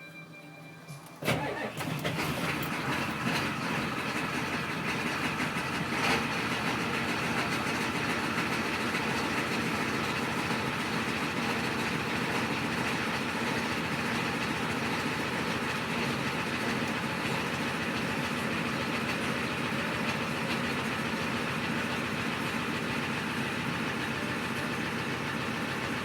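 1993 Ford 7.3 IDI V8 diesel engine cold-starting: it fires about a second in and settles into a steady idle.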